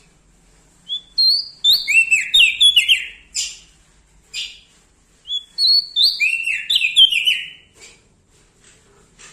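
Prenjak daun Lombok singing two loud phrases of quick, downward-sliding chirped notes mixed with thin high notes, with a short pause between the phrases.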